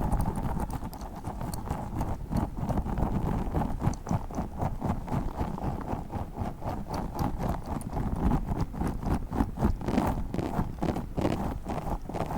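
Tiny spiky orbeez-filled squishy ball handled close to the microphone, making a rapid, uneven run of soft clicks that grow a little stronger near the end.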